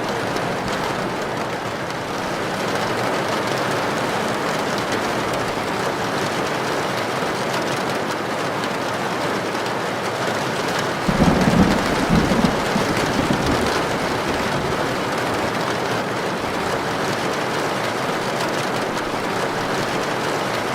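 Heavy rain falling steadily on a tin roof, with a low rumble of thunder about halfway through that lasts a few seconds.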